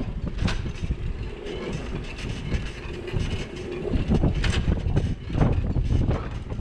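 Road noise from riding a bicycle through a city street with a camera mounted on the bike: a steady low rumble with many small clicks and rattles from the bike and the road surface, and a faint held whine in the middle.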